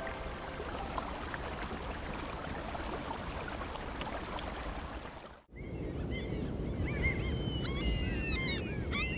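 Surf and water noise from the sea. After a brief cut about five and a half seconds in, many seabirds call over the water in short, rising and falling cries.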